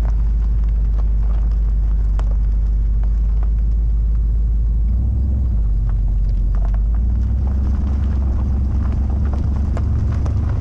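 Turbocharged 5.7-litre LS1 V8 in a Mercedes W124 wagon running with a deep, steady exhaust note as the car creeps off at low speed. The note rises a little about five seconds in as it pulls away, with scattered crackles of gravel under the tyres.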